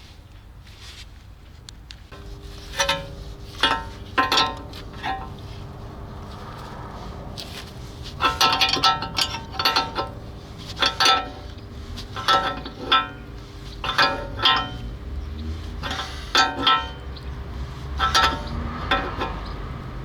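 Repeated metallic clanks with a bright ring, irregularly spaced, from steel tools striking and working the car's steering knuckle and suspension parts during strip-down. A steady low hum runs underneath them.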